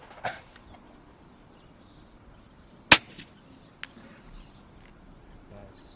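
A single sharp shot from a pellet air rifle about three seconds in, followed under a second later by a much fainter click.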